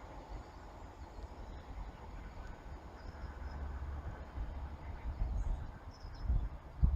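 Quiet outdoor ambience: a low, fluctuating rumble with a few faint high bird chirps, and a brief low thump near the end.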